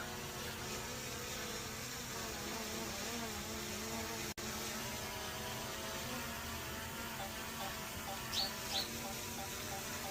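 Buzz of a DJI Mini 4 Pro drone's propellers, the pitch wavering up and down as the motors correct against the wind, over a wind-noise hiss. The sound cuts out for an instant a little past four seconds in, and two short high chirps come near the end.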